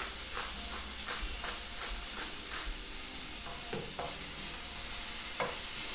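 Onions, crushed garlic and pepper frying in hot oil in a pan: a steady sizzle with scattered sharp pops and clicks, as of a utensil stirring against the pan.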